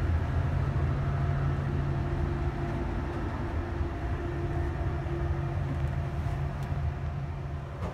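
Steady low hum and rumble inside an ÖBB Nightjet sleeping car, with a few faint higher steady tones over it. A faint click comes near the end.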